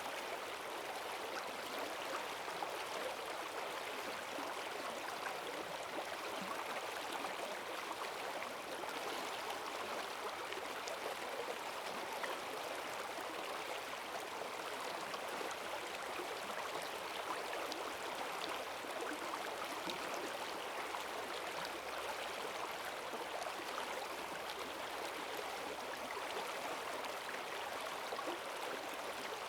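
Forest stream swollen by heavy rain, its water rushing with a steady, even gurgle.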